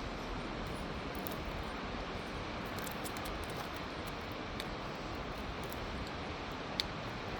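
Steady outdoor background noise with a few faint clicks and one sharper click about seven seconds in.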